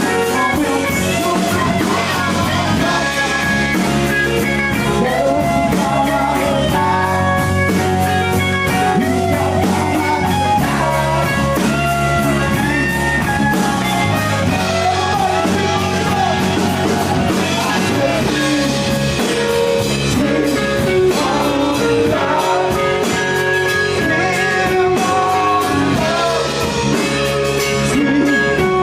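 A rock band playing a blues-rock song live, with guitar and a singing voice, loud and continuous.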